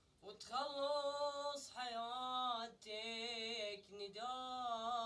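A man singing unaccompanied in Arabic, with long held notes that waver and bend in ornamented turns. The singing starts after a short breath pause about half a second in.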